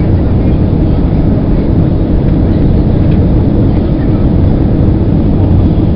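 Loud, steady low rumble of an airliner's engines and airflow heard inside the passenger cabin during landing.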